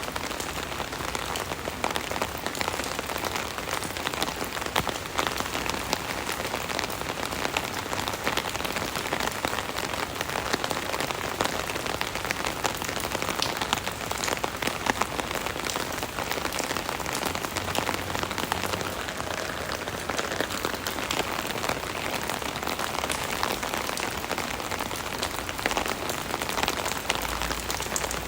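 Rain pattering steadily on an umbrella canopy overhead, a dense patter of many close individual drops.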